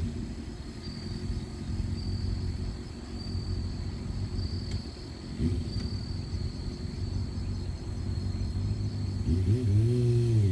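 Suzuki GSX400 Impulse's inline-four idling through a baffle-less Big One slip-on silencer with a deep, low exhaust note. The throttle is blipped briefly about five seconds in, then the engine is revved up and back down near the end.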